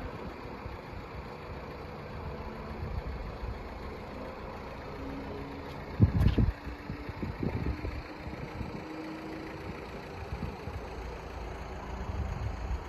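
A road vehicle's engine idling steadily under a low rumble, with a sudden thump about six seconds in.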